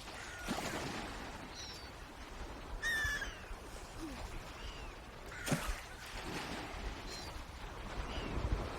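Birds calling: short, high, falling chirps every second or so, with a stronger, lower call about three seconds in and a single sharp knock about five and a half seconds in.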